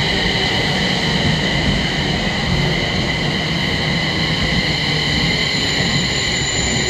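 Electric train running through a station: a steady rumble with a high squeal of several held tones over it.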